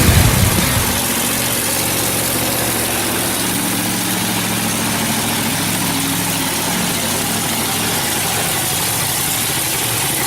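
An engine idling steadily under a broad, even hiss, with no revving.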